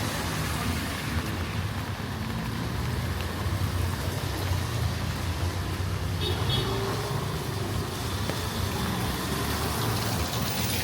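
Street traffic: a motor vehicle's engine rumbling steadily close by under a constant hiss, with a brief high tone about six seconds in.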